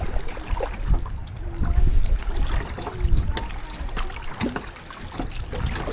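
Water trickling and splashing around a kayak as it is paddled, with short dripping and gurgling sounds and uneven low rumbling from wind on the microphone.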